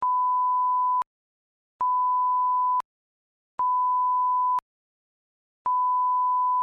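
Electronic beep tone: a steady, pure, single-pitch beep repeated four times, each about a second long with about a second of silence between, evenly spaced like a test or timing signal.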